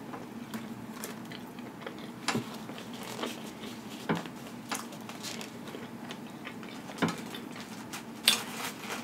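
Close-miked chewing of pizza with the mouth closed: soft wet mouth clicks and smacks every second or so. About eight seconds in there is a brief, louder rustle as a hand picks at the pizza on its paper liner.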